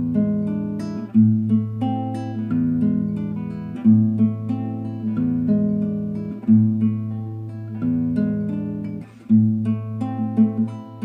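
Acoustic guitar played fingerstyle: plucked picked-out notes over a bass line that changes about every second and a half, in an even rhythm.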